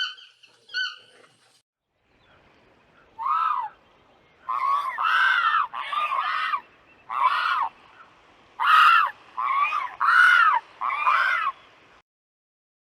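An animal giving a series of about nine short calls, each rising and then falling in pitch. The calls start about three seconds in and run close together until near the end.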